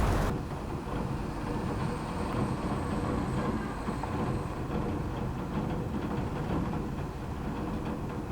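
Train running: a steady low rumble with a faint steady hum, coming in just after a louder rushing noise cuts off at the very start.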